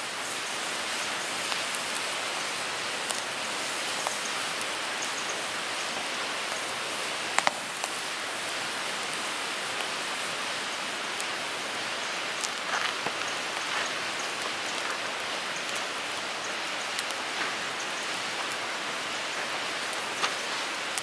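Wood fire burning in a Picogrill 398 folding fire pit: a steady hiss of burning wood with scattered crackles and sharp pops, the loudest pop about seven seconds in.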